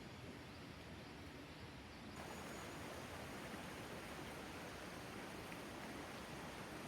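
Faint steady hiss of quiet outdoor night ambience with no distinct sound events, growing a little louder about two seconds in.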